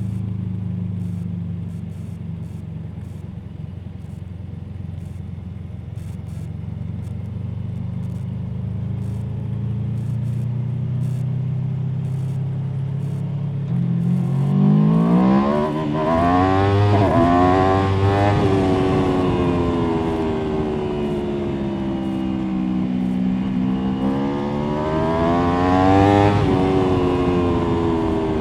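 Aprilia Tuono V4 motorcycle's V4 engine running at a low, steady note, then about halfway through revving up hard, its pitch rising and falling several times as the rider accelerates and backs off.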